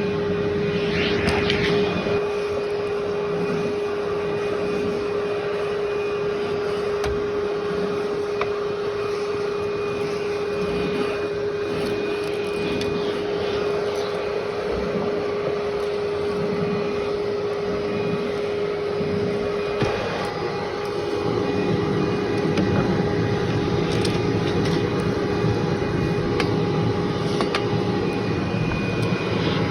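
Upright vacuum cleaner running steadily over carpet: a constant motor whine under a rushing airflow, with scattered small clicks of debris being picked up. About two-thirds of the way through, the motor's pitch steps up slightly and a higher tone joins it.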